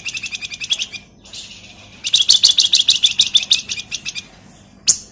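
Flamboyan (wergan Jawa, the Javan fulvetta) singing in fast, high chattering trills of short chips. One trill ends about a second in, a louder trill runs from about two seconds to past four, and a sharp note comes near the end.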